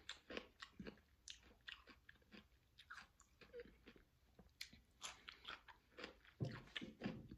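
A person biting and chewing raw cucumber spears: a run of quiet, irregular crunches.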